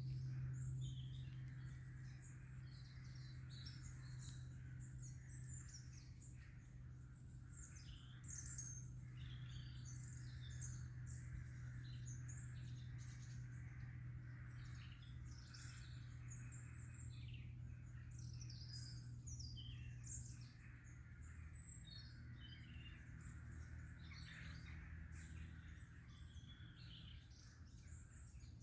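Woodland birdsong: many small birds chirping and calling in short high notes throughout, faint, over a steady low hum.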